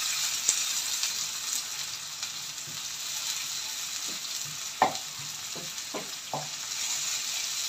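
Onion, garlic and tomato pieces sizzling in hot oil in a non-stick wok as a wooden spatula stirs them, with a few short knocks of the spatula against the pan in the second half, the sharpest about five seconds in.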